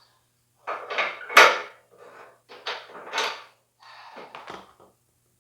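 Metal parts clanking, scraping and knocking in several short bursts as mounting pins are worked into a snowblower hitch, with one sharper knock about a second and a half in.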